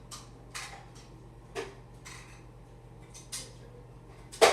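Fluffy shaving-cream slime being squeezed and played with by hand, making irregular small clicks and pops, with a sharper, louder one near the end.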